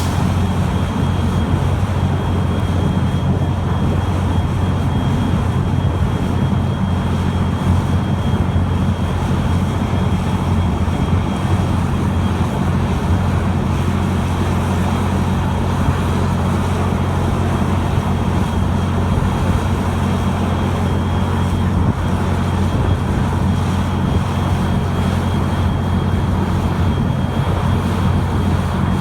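Amtrak locomotive running steadily: a loud, deep, even rumble with a thin, steady high whine over it.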